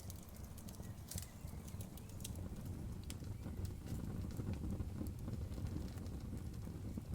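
Campfire crackling with irregular sharp pops and snaps over a steady low rush of river water.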